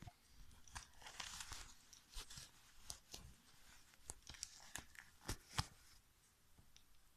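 Faint handling noise: scattered sharp clicks and a short rustle about a second in.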